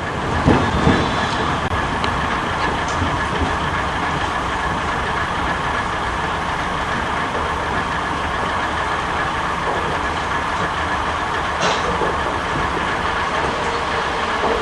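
Old JNR Class 73 electric train running, a steady rumbling rail noise, with two heavy knocks within the first second and a sharp click near the end.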